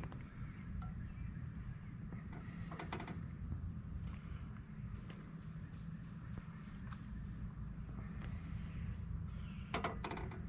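Steady high chirring of crickets, with a few soft clicks about three seconds in and again near the end as bacon strips are laid in a cold cast iron skillet. There is no sizzle yet, and faint bird chirps come through now and then.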